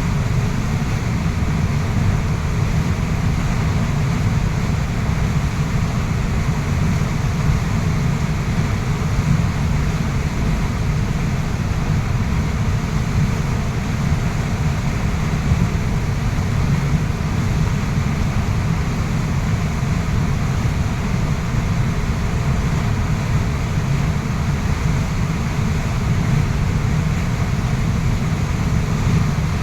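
Waterfall rushing steadily: a dense, even noise of falling water, heaviest in a deep low rumble.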